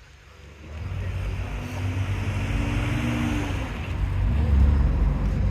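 A car's engine rumbling as it drives close by, getting loud suddenly about a second in.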